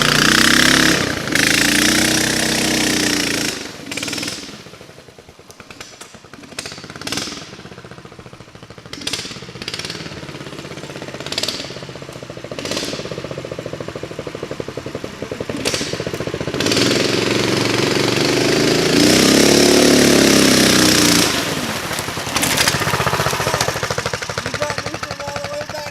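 The 420 single-cylinder engine of a mini bike trike revving hard near the start, dropping to a low, quick putter with scattered sharp knocks, then revving up again past the middle and settling back to a putter.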